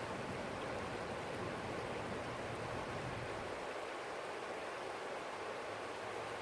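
Forest stream flowing, a steady rush of water. A low rumble underneath fades out about three and a half seconds in.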